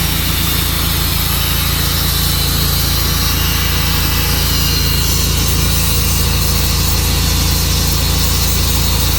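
Tru-Cut sawmill running steadily with its blade sawing through a log.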